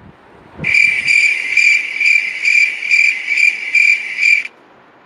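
Crickets sound effect: a cricket chirping in an even, steady rhythm of about two chirps a second. It starts about half a second in and stops shortly before the end.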